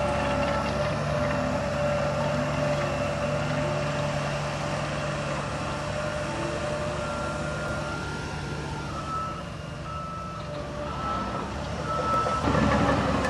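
Heavy earthmoving machine's diesel engine running steadily, with a reversing alarm beeping about once a second from about halfway. The engine grows louder near the end.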